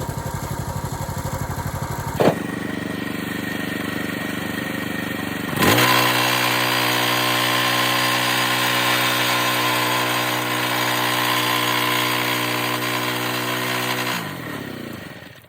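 Log splitter's small gasoline engine running steadily, with a sharp click about two seconds in. It turns louder and fuller from about five and a half seconds, then near the end its pitch drops and it fades as it shuts off and winds down.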